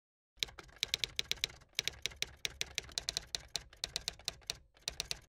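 Typewriter sound effect: a quick, uneven run of sharp key clacks, about five or six a second, broken by two short pauses.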